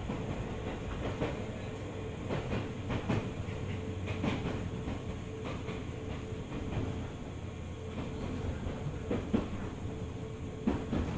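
205 series 600 subseries electric multiple unit running, heard from inside the car: a steady rumble and hum with irregular clicks of wheels over rail joints.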